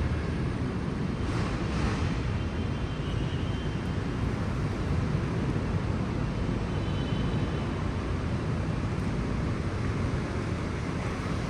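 Steady low rumble of city road traffic mixed with wind on the microphone, with faint high squeals a few seconds in and again about seven seconds in.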